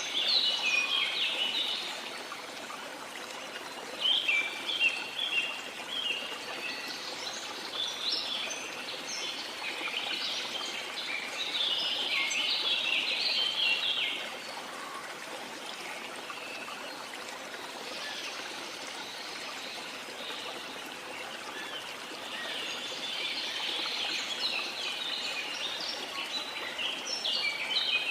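Steady rush of a flowing stream, with songbirds chirping in clusters of quick high notes that come and go over it, dropping away for several seconds in the middle.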